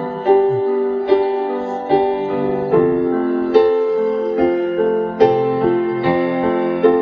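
Piano playing a slow instrumental passage of a ballad without a voice, a chord or note struck about every second and left to ring.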